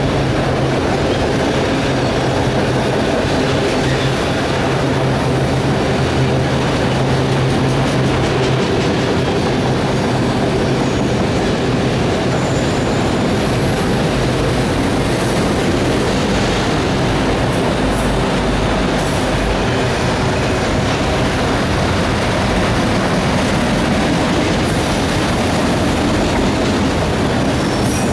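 Empty autorack freight cars rolling steadily past at close range: a constant rumble and rattle of steel wheels on the rails. Thin, high-pitched wheel squeals come in at times from about ten seconds in.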